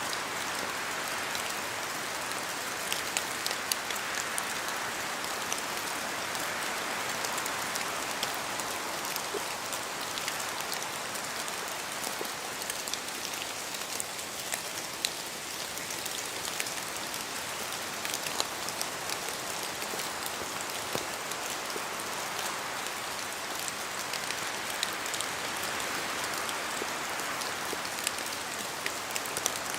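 Steady rain in a forest, an even hiss with many sharp drip impacts of drops falling from the trees. The hiss swells and eases slightly.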